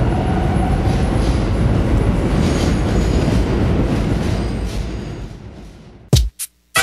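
Subway train in motion: steady noise of wheels running on the track, fading out near the end.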